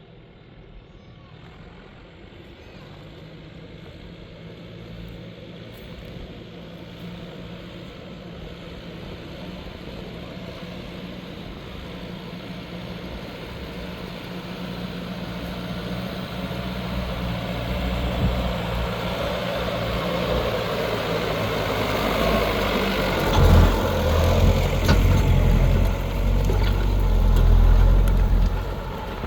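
New Holland TL100 tractor's diesel engine working under load while pulling a plow through hard, compacted ground. It grows steadily louder and is loudest near the end, then falls off suddenly.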